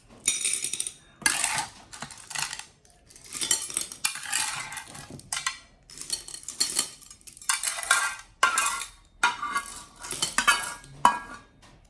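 Repeated irregular bursts of clattering and clinking, about a dozen, each lasting around half a second to a second.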